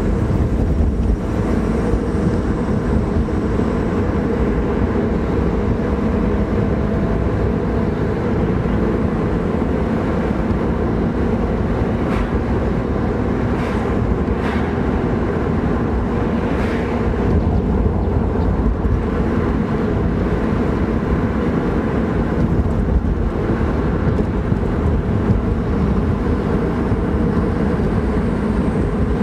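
BMW E36 M3's straight-six engine running steadily on the move, heard from inside the cabin together with tyre and road noise. A few brief knocks or clicks come through around the middle.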